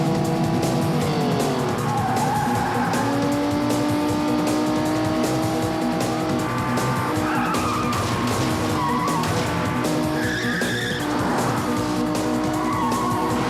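Car-chase film sound mix: car engines running and revving, with several short tyre squeals, over a background music score.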